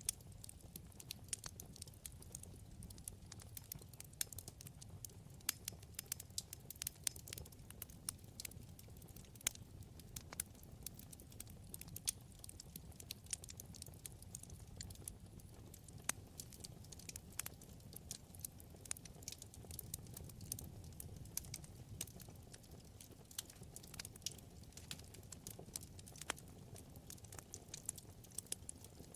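Wood fire burning in a fireplace: frequent irregular crackles and pops, several a second, over a low steady rumble of the flames.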